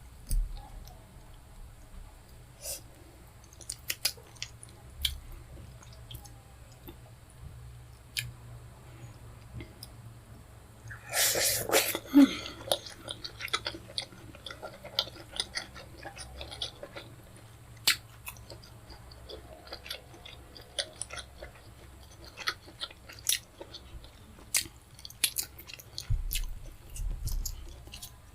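Close-miked chewing of fufu and pepper soup: scattered wet smacks and mouth clicks, with one louder, longer rush of noise about eleven seconds in.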